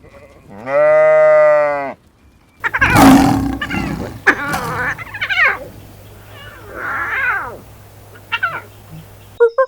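Animal calls: one long, steady-pitched cry, then a harsh roar-like call followed by several shorter cries that fall in pitch.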